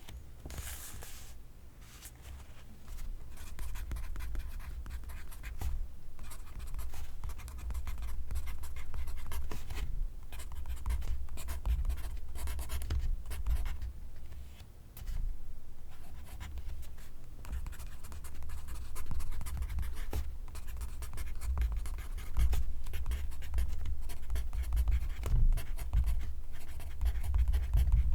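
Pencil graphite scratching on paper in quick strokes of handwriting, close up, with a short pause about halfway through.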